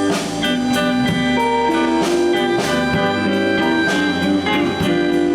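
Live blues band playing an instrumental fill between sung lines: electric guitar over bass and drums, with notes held and changing every half second or so.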